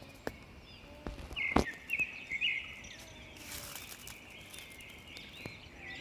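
Songbirds chirping in quick clusters of short notes, with a sharp click about a second and a half in.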